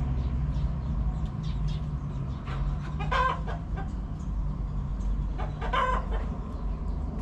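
Chickens clucking: two short calls about three seconds apart, over a steady low rumble.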